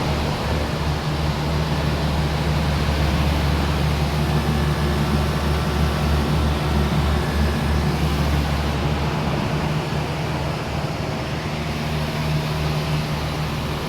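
HVAC units running steadily: an even fan rush over a low compressor hum. The low hum weakens about two-thirds of the way through.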